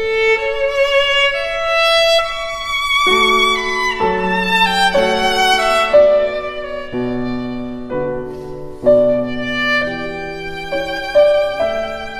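Background music: a slow violin melody with vibrato over held lower accompanying notes.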